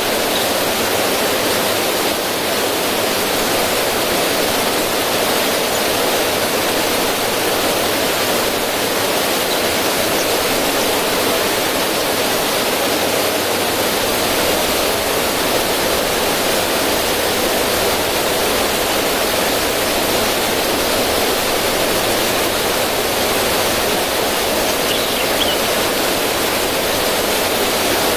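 River water rushing and splashing over stones in a small cascade: a steady, even hiss of running water.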